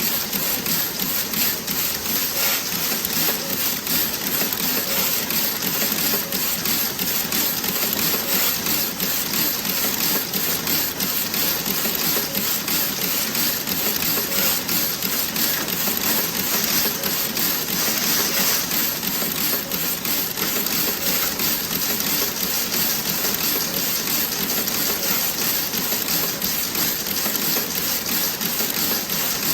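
Toe-sock knitting machine running, a dense steady clatter of many fine rapid clicks over a hiss.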